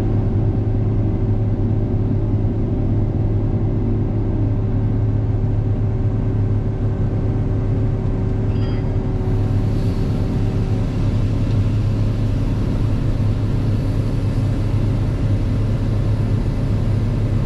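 Combine harvester running steadily while cutting soybeans: a continuous deep engine drone with a steady machinery hum over it.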